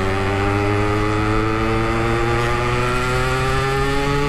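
Yamaha RX-King 135cc two-stroke single-cylinder engine pulling hard in gear through a stock-look aftermarket exhaust, its pitch climbing steadily as it accelerates. The clutch and gear shifting are still slipping, by the rider's account.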